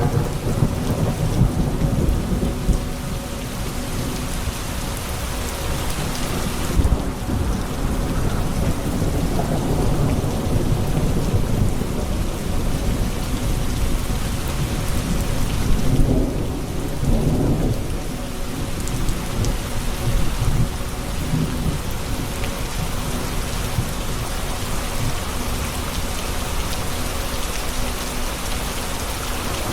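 Thunderstorm: steady rain pouring down, with low rolling thunder that swells a few times, most strongly near the start and again about halfway through.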